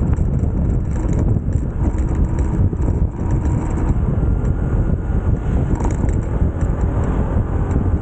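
Motorcycle riding at a steady pace: constant engine and road noise under heavy wind buffeting on the microphone.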